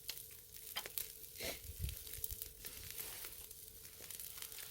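Pork grilling on a charcoal brazier, sizzling faintly, with scattered sharp clicks and crackles.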